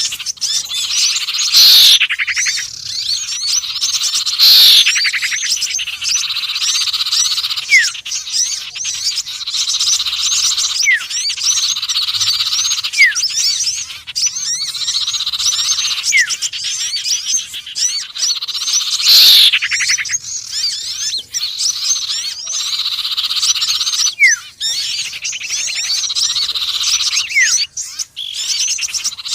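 Bird-lure recording mixing the calls of small songbirds (sirtu, konin and sepah raja). A dense, continuous high chirping and trilling runs throughout, with short thin downward whistles and louder downward-sweeping calls every few seconds.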